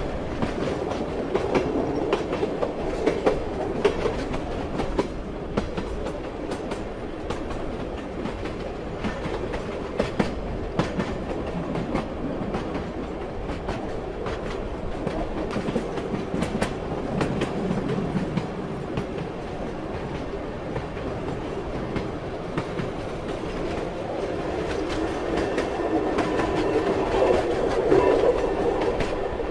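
Train wheels clattering over the rail joints: a steady running rumble with irregular sharp clicks. It swells louder in the last few seconds, and a faint steady whine joins in.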